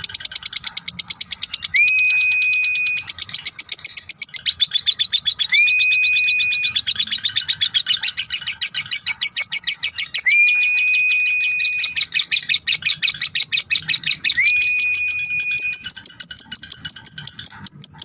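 Lovebird ngekek: a long, unbroken chattering trill of rapid, evenly repeated high chirps, many a second. Four times, about four seconds apart, a clear note rises briefly and then holds steady for about a second over the trill.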